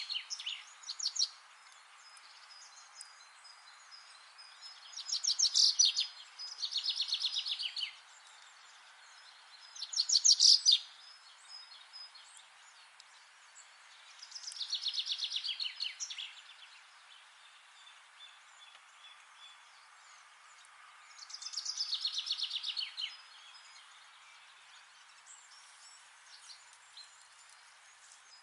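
Songbirds singing in a forest: about six songs of rapid, evenly repeated notes, each lasting a second or two, come every few seconds over a steady faint hiss.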